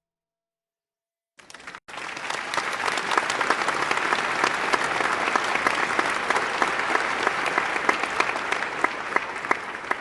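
A crowd applauding: dense, steady clapping that starts suddenly about a second and a half in.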